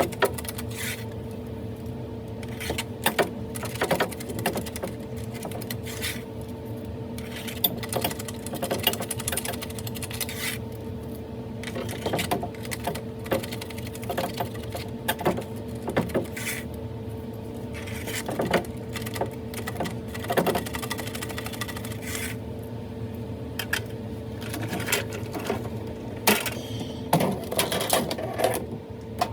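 Irregular clicks, rattles and scrapes, like small metal tools working, over a steady mechanical hum.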